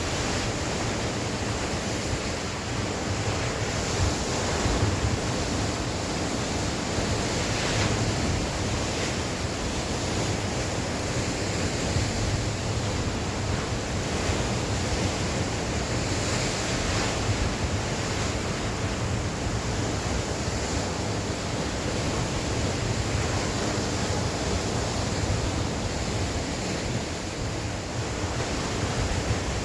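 Sea waves breaking and washing ashore in a continuous rushing surf, with wind gusting across the microphone.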